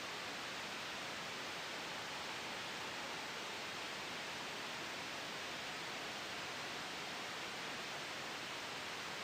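Steady, even hiss of generated sleep white noise, with no swells, gusts or breaks.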